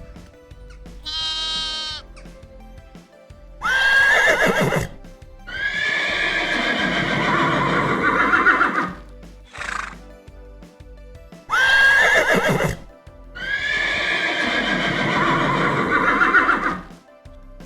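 A horse neighing, the same call played twice: each time a sharp high squeal, then a long, quavering whinny, over background music.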